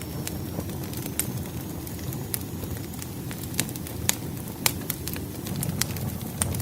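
Wood fire crackling: irregular sharp pops and snaps of burning firewood over a steady low rumble.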